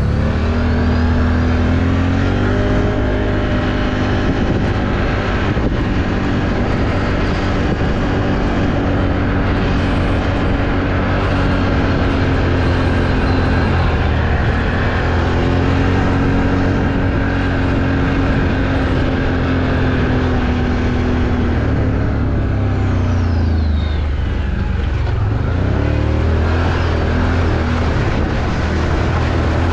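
Off-road vehicle's engine running under load, its pitch rising and falling with the throttle, easing off twice and climbing again.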